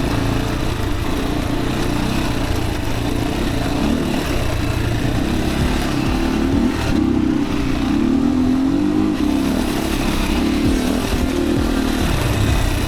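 Yamaha WR155R's single-cylinder engine running on a dirt trail, its note rising and falling with the throttle.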